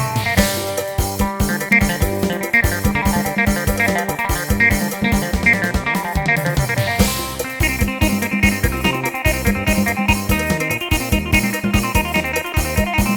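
Yamaha PSR-1000 arranger keyboard playing a Thai procession-style tune ('lai hae') with a plucked-string lead voice over a steady drum rhythm, with a crash near the start and again about seven seconds in.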